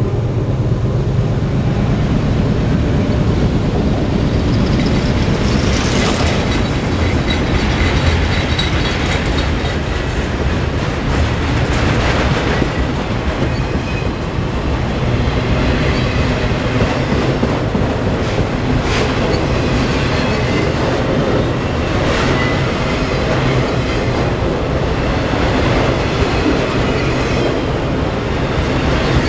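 Freight train of enclosed autorack cars rolling past close by: a steady rumble of steel wheels on rail, with clattering as the wheels cross rail joints and a few sharper clanks along the way.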